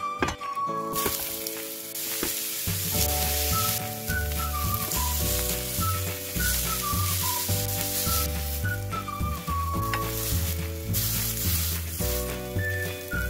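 Zucchini slices sizzling in oil on a hot ridged grill pan as they brown, a steady frying hiss that starts about a second in and stops shortly before the end. Background music with a whistled-sounding melody and a bass line plays throughout.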